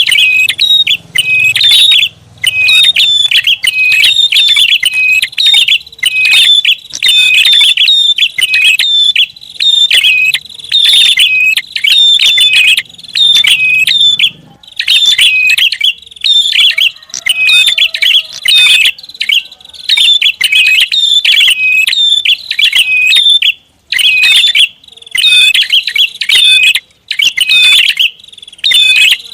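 Prenjak (prinia) calling loudly and without let-up: fast runs of sharp, repeated high chirps, broken by short pauses every few seconds. It is a bird-lure (pikat) recording of the bird's busy, agitated calling.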